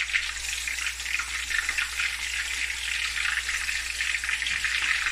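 Raw chicken pieces frying in hot oil and ginger-garlic paste in a karahi: a steady, dense crackling sizzle as the meat hits the oil.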